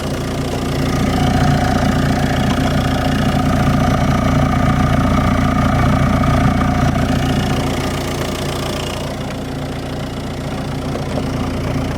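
Audi 2.0 TDI BRD four-cylinder diesel engine idling steadily with the hood open, carrying a metallic noise the owner cannot place and calls very bad, loudest on the exhaust side by the airbox. The sound swells a little after about a second and eases again past the middle.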